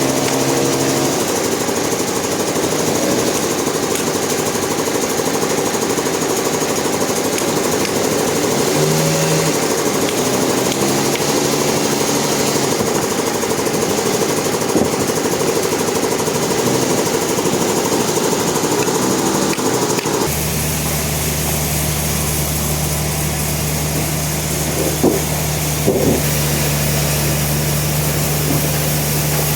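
Engine-driven sawmill machinery running steadily. About two-thirds of the way through, the sound changes abruptly to a deeper, steadier drone, with a couple of brief knocks near the end.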